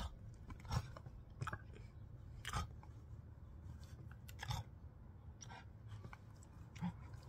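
Wet mouth smacks and chewing noises close to the microphone, short and sharp, coming irregularly about once a second.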